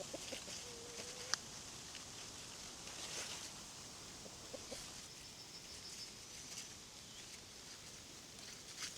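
Chickens clucking quietly, short low notes, with a single sharp click about a second in.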